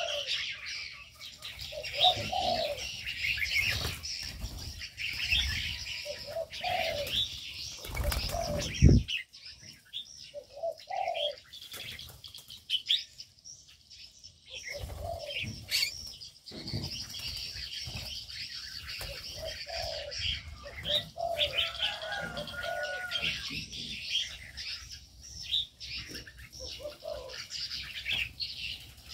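Aviary birds: doves cooing in short low calls over a steady mix of chirps from smaller birds, with wings flapping. The loudest moment is a flurry of wingbeats about eight seconds in.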